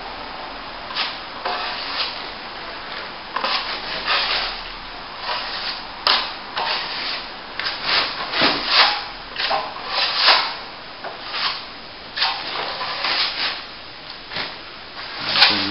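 Plastering trowel scraping a very thin skim of top coat compound across a plasterboard joint in short, irregular strokes.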